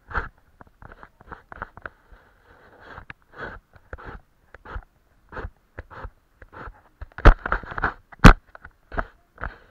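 Paintbrush dabbing and brushing on watercolour paper in short, irregular scratchy strokes, with two sharp knocks near the end.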